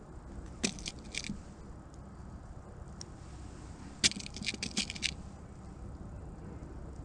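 Air guns being handled and loaded, with sharp metallic clicks: two or three about a second in, then a quick run of clicks between about four and five seconds in.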